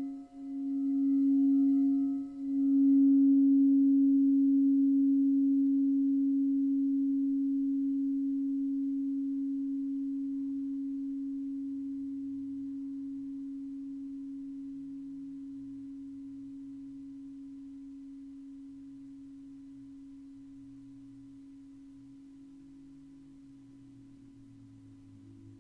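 A singing bowl ringing on one low, steady note and slowly dying away over about twenty seconds. Its higher overtones fade within the first few seconds, and the note swells and dips twice near the start.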